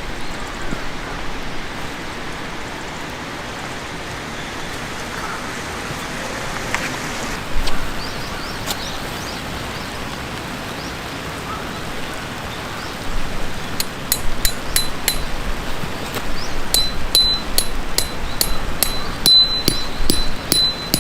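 Steady hiss with scattered small crackles, then from about two-thirds through a quick, regular run of metallic clinks, about three a second, each with a bright ringing tone.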